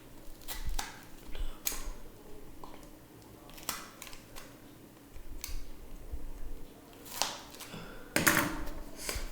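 A scattering of irregular clicks, taps and short scrapes from cardboard and wood being worked by hand, with a longer, louder scrape near the end.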